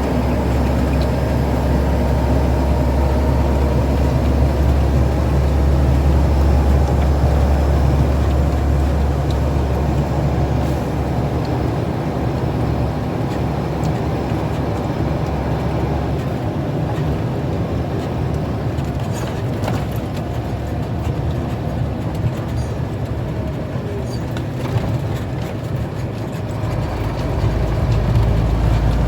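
Truck engine running steadily under way, with road noise. Its deep low hum thins out about halfway through and comes back strongly near the end.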